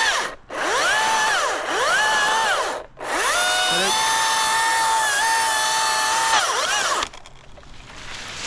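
Cordless electric saw motor, most likely a battery chainsaw, whining up to speed and back down in a series of trigger pulls: short runs in the first three seconds, then one steady run of about three seconds. It stops about seven seconds in.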